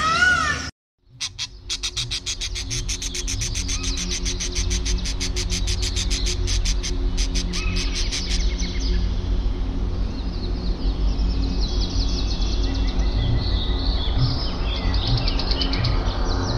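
Birds chirping. A brief wavering call cuts off under a second in, then a fast run of sharp repeated chirps follows, and from about halfway softer twittering runs over a steady low hum.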